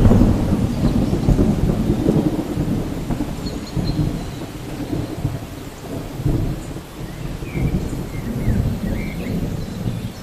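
Thunderstorm ambience: a long low rumble of thunder over steady rain, loudest near the start and easing off after a few seconds.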